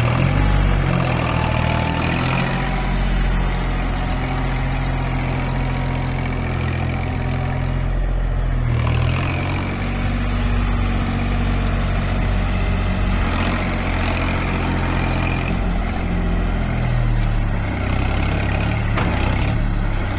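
Tractor engine running steadily at idle, with its note shifting briefly a couple of times.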